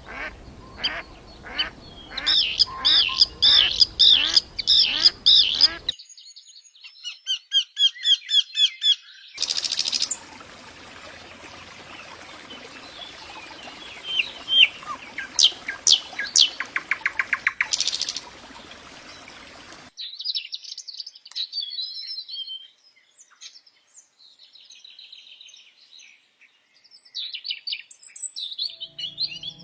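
Several different songbirds singing in turn, spliced from separate recordings that switch abruptly about three times: first loud repeated high calls, then a fast trilled series, then scattered calls over a hissy background with a rapid run of notes, and finally sparse high chirps.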